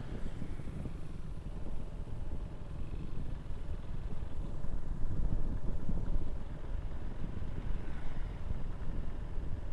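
Motorcycle riding along a road: a low, uneven engine and road rumble with wind buffeting the microphone.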